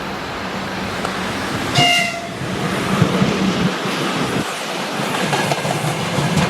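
Freight train hauled by a 2ES10 "Granit" electric locomotive running past, with a short horn blast about two seconds in. The rumble of the train continues, and wheels clatter over the rail joints.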